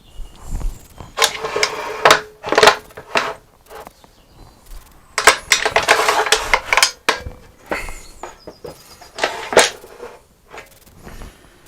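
Metal clamps clattering and knocking as they are handled and set up on a glue-up, in two rattling bursts about a second in and about five seconds in, followed by a few single knocks.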